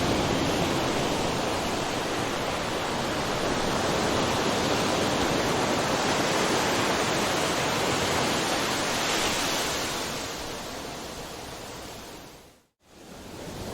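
Ocean surf: a steady wash of breaking waves, a continuous noisy rush. About ten seconds in it fades away to a moment of silence, then swells back in near the end.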